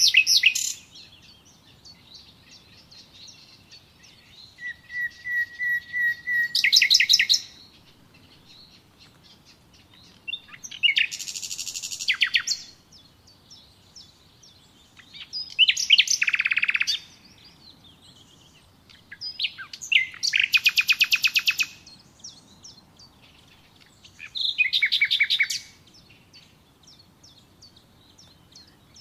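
A bird singing: short phrases of fast trills and chirps, one every four to five seconds with quiet gaps between, one of them opening with a held whistled note.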